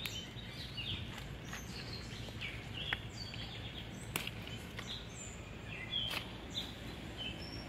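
Songbirds chirping in short, repeated calls over a steady outdoor background hiss, with a few sharp clicks about three and four seconds in.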